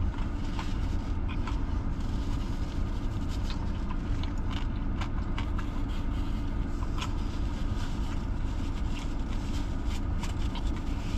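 Steady low rumble of a car's idling engine heard inside the cabin, with scattered small clicks and crinkles from eating a burger and handling its wrapper.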